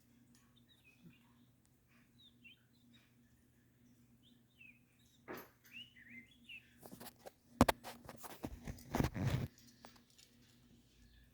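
A pet bird giving short, soft chirps every second or two, then a cluster of sharp clicks and a rustling scrape about three-quarters of the way in, the loudest part, over a faint steady hum.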